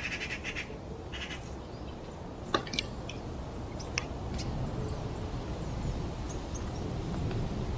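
A bird's rapid pulsed trilling calls for the first second and a half over a steady low rush of flowing water. A few sharp clicks sound around the middle.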